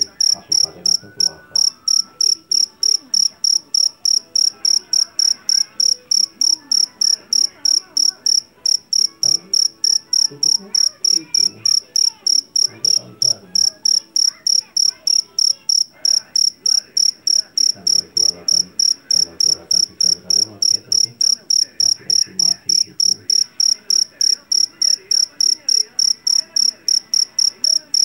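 Jeliteng field cricket (Javanese black cricket) calling: a loud, shrill chirp repeated evenly about three times a second.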